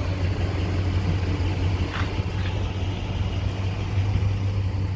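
2012 Nissan Titan's 5.6-litre V8 idling with a steady low hum.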